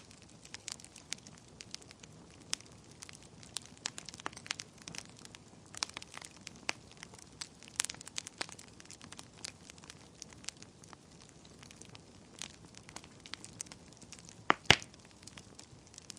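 Wood fire burning in a fireplace, crackling with irregular sharp pops over a soft hiss. One much louder pop comes near the end.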